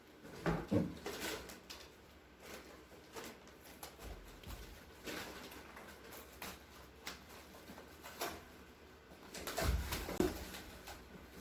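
Scattered knocks, clicks and light clatter of household items being handled and set down in a small room, with a louder cluster of knocks near the end.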